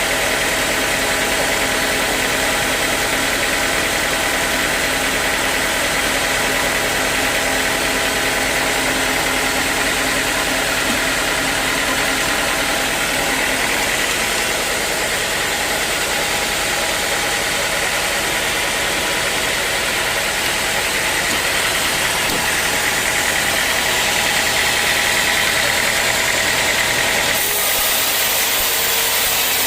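Sawmill running steadily, its saw cutting through dry teak wood; the machine's tone changes abruptly near the end.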